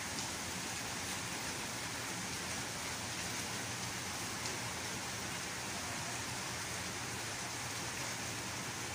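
Gentle rain falling steadily on pavement and foliage: an even hiss, with a few faint drip ticks.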